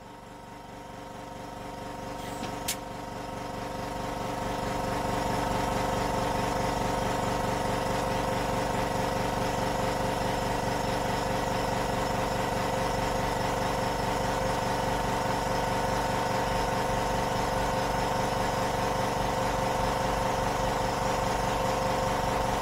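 Hydraulic press's pump motor running with a steady droning hum. It grows louder over the first few seconds and then holds even.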